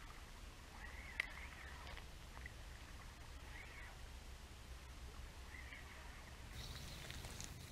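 Faint outdoor ambience: a few scattered bird chirps over a low steady rumble, with one sharp click about a second in.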